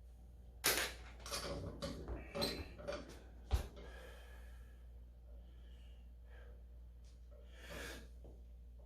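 Clicks, clatter and knocks of a loaded thick-bar rolling handle and its weights being handled before a lift, with one harder knock about three and a half seconds in, and a sharp breath near the end.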